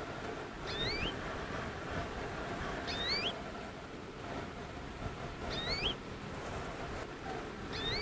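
A bird calling four times, about every two and a half seconds: each call is two quick rising whistled notes, the second lower than the first, over a steady low background noise.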